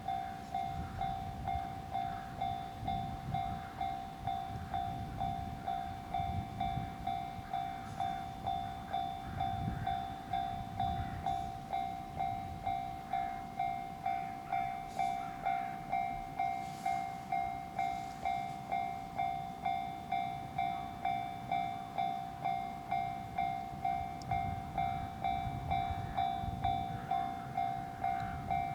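Freight train running past with a low rumble. Over it, a steady tone pulses evenly about one and a half times a second.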